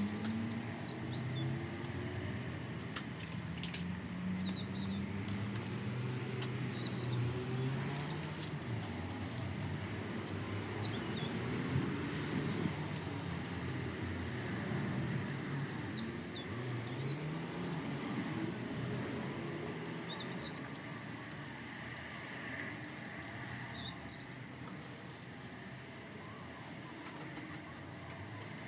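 Small birds chirping in short high bursts every few seconds, over a low wavering sound and a steady background hum.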